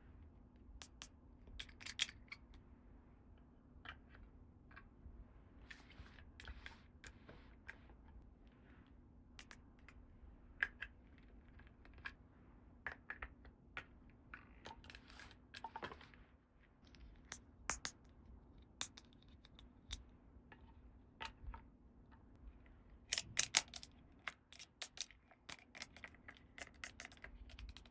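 Small plastic toy pieces being handled and set down: light, irregular clicks and taps, with a quick flurry of clicks near the end.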